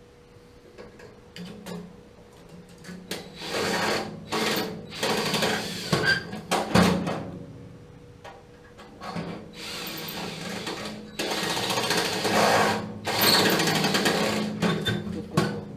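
Small handheld power tool run in several bursts of one to two seconds each, working against metal while trying to free a stuck part of a gas water heater's burner assembly.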